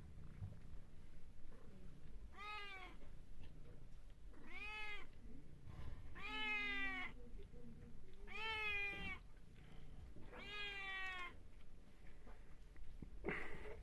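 Domestic cat meowing: five drawn-out meows about two seconds apart, each rising and falling in pitch, then a shorter, sharper call near the end.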